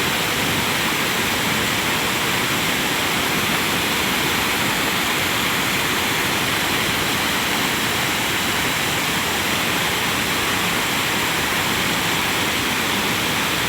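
Steady rushing of a rain-triggered lahar from Semeru: a flood torrent of muddy water and volcanic debris pouring down the river channel.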